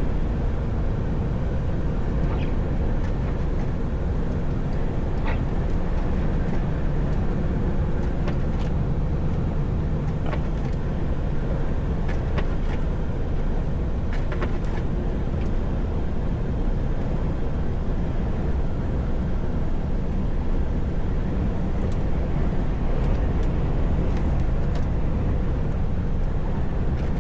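Steady low rumble of a truck running on the road, engine and road noise heard from inside the cab, with scattered faint clicks.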